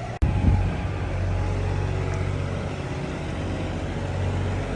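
Engine of construction equipment running steadily, a low rumble with a constant tone. It begins abruptly about a quarter of a second in.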